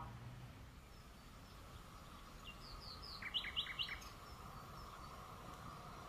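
A small songbird chirping: a few faint high notes, then a quick burst of several short, descending chirps about three to four seconds in, over a faint steady outdoor background.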